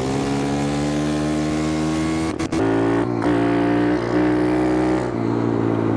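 Small single-cylinder four-stroke pit bike engine running close by, its revs climbing over the first couple of seconds. The sound breaks off briefly about two and a half seconds in, then the engine carries on at steadier revs.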